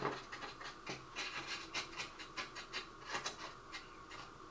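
Paintbrush rubbing weathering powder onto plastic model roof panels: faint, quick scratchy strokes, about three to four a second.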